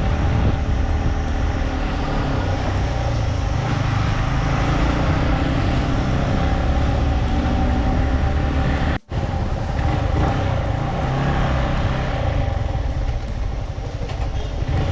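Motorcycle engine running steadily with a heavy rumble of wind and road noise while riding. The sound drops out completely for an instant about nine seconds in.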